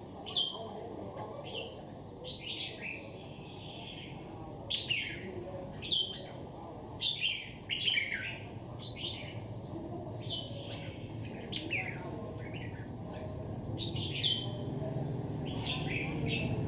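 Red-whiskered bulbul calling in short, sharp chirps, repeated irregularly, over a steady low background hum.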